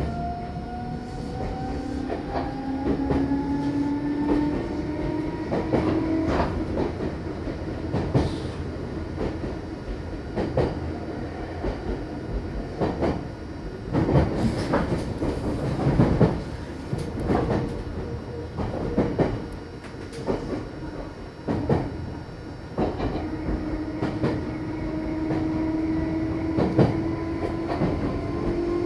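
Meitetsu Bisai Line electric train heard from inside the car while running between stations. A motor whine rises in pitch over the first few seconds as the train gathers speed, and rises again near the end, over a steady running rumble. The wheels click over rail joints in repeated groups, most densely in the middle.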